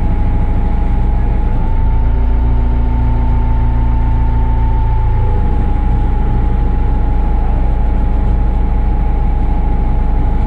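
Caterpillar IT24 tool-carrier loader's diesel engine running steadily with a whine over it. About two seconds in, the engine speeds up a little and the whine rises for a few seconds as the machine lifts, then it settles back to its earlier note.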